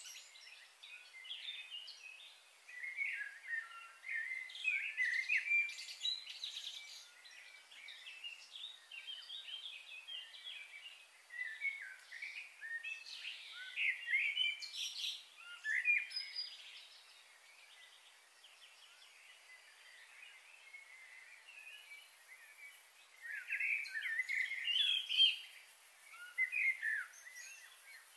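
Wild birds chirping and trilling in quick clusters of short calls, with a quieter stretch in the middle before the calling picks up again.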